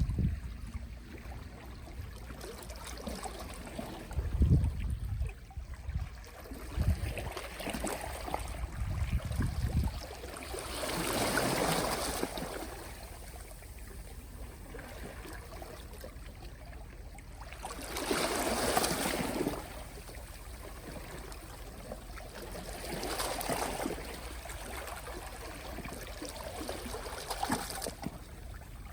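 Small, soft sea waves washing onto the shore, rising in three gentle surges of surf several seconds apart over a steady wash of water. Some low rumbling in the first third.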